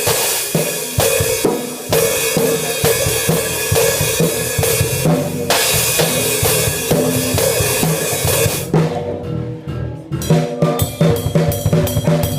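Rock drum kit played hard: kick, snare and a steady wash of crashing cymbals, with amplified instruments holding pitched notes underneath. About eight and a half seconds in the cymbal wash stops, and a run of separate, accented hits follows.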